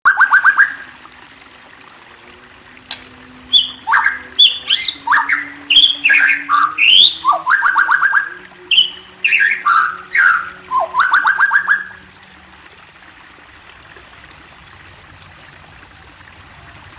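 Murai songbird singing. A quick burst of repeated notes opens, then from about three seconds in comes a run of loud, varied whistled phrases that glide up and down, with fast trills. The song stops about twelve seconds in.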